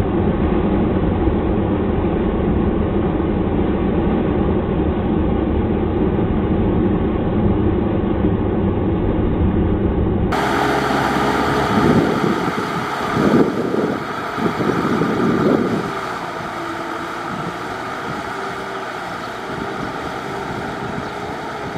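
Farm tractor engine running hard while ploughing deep mud, a dense low drone. About ten seconds in the sound cuts to another recording: a steady engine hum with a few loud surges, then running quieter.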